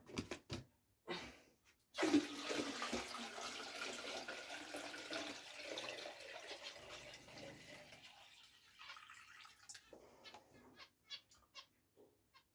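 Conditioned fresh water being poured into a fish tank during a water change, a rushing splash that starts about two seconds in and fades away over several seconds, followed by a few drips and small knocks.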